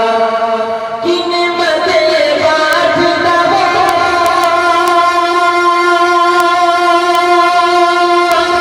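A naat sung by a man, holding long notes over a steady musical backing; the sound shifts to a new held note about a second in.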